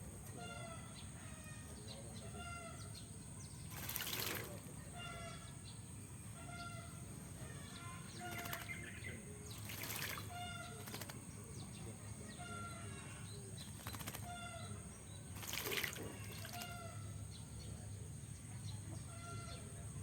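Oriental magpie-robin bathing in a caged water dish: short bursts of splashing and wing-fluttering, about five times. A short pitched call repeats about once a second throughout.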